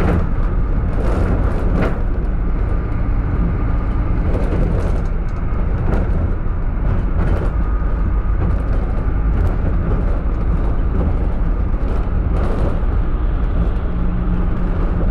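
Minibus running, a steady low rumble of engine and road noise with scattered short knocks and rattles.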